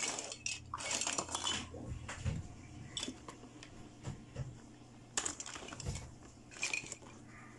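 Hard plastic toy pieces clicking and clattering as they are handled and set down on a tabletop, among them a plastic toy stretcher carrying a baby doll. A brief rustle at the start, then scattered single clicks and a few soft thumps.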